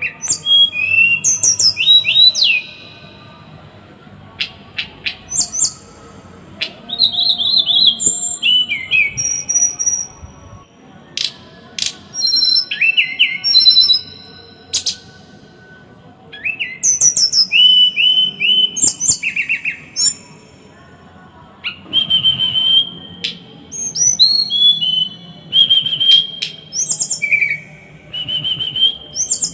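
A small songbird singing in bouts of fast, high-pitched chirps and whistles, each phrase one to three seconds long with short pauses between. The phrases are the dense, harsh 'tembakan' (shot) notes that masteran recordings play to tutor caged songbirds.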